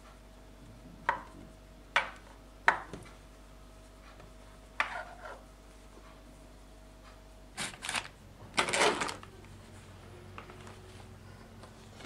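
A metal table knife clinking against a hard kitchen worktop four times in the first few seconds while a wet wipe is wrapped around its blade, then a longer burst of rustling and handling about eight seconds in.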